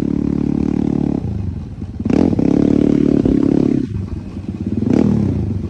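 Dirt bike engine running, with the throttle blipped up about two seconds in and again near the five-second mark.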